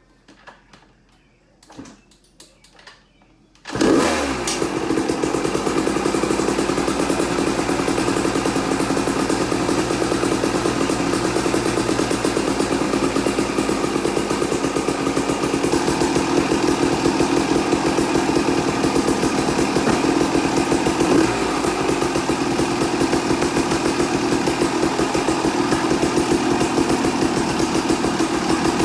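1994 Yamaha WR250's two-stroke engine fires suddenly about four seconds in, after a few light knocks, then keeps running steadily.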